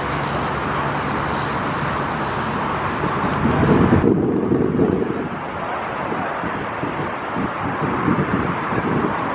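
Wind gusting against the microphone over a steady rushing roar. The higher part of the roar thins out abruptly about four seconds in, and the low buffeting comes in bursts.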